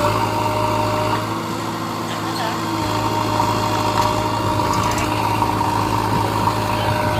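Tractor's diesel engine running at a steady speed, with people's voices in the background.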